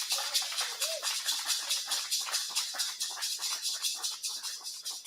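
Rainforest insects calling in a fast, even pulsing trill, about eight pulses a second, slowly fading, with a few faint short whistles underneath.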